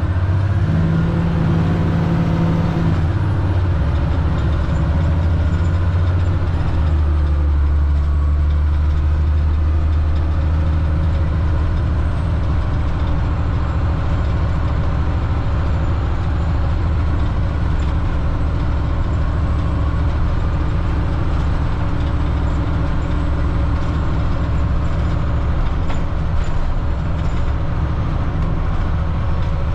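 Cat C7 diesel engine of a Blue Bird All American FE school bus running steadily, its pitch shifting a few seconds in and settling lower about seven seconds in.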